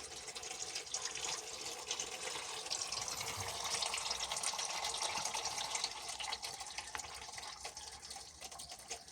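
Used engine-flush oil pouring in a steady stream from a car engine's sump drain hole into a container, swelling a few seconds in and then easing slightly.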